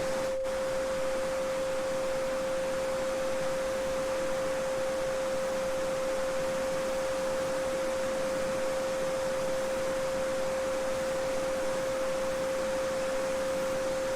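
A steady 528 Hz sine tone, the Solfeggio frequency, held without change over the even rush of a babbling brook.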